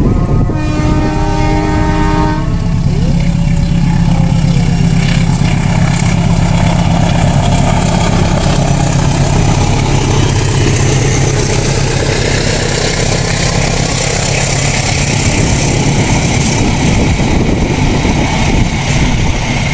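Indonesian diesel locomotive's horn sounds in one blast of about two seconds just after the start, the Semboyan 35 warning signal. A fast passenger train then rushes past close by: a steady deep engine drone under the loud rushing of carriage wheels on the rails.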